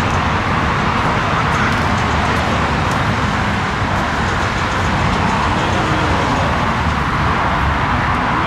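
Steady, loud roar of a jet airliner's engines, holding even with no rise or fall.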